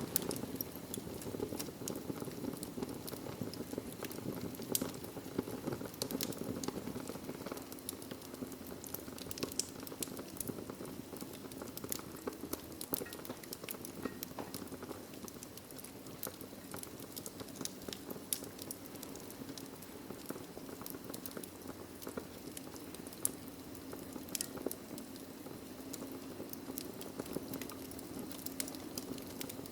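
Wood fire of burning logs in a fireplace: a steady low rush of flames with irregular sharp crackles and pops.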